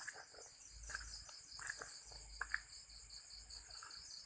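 Crickets chirping at night, a steady high trill of rapid, evenly spaced pulses. A few faint short clicks sound through it.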